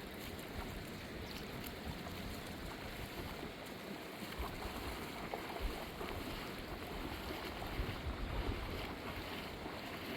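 Steady rushing of a fast-flowing mountain river, an even hiss with low rumbling that swells for a moment near the end.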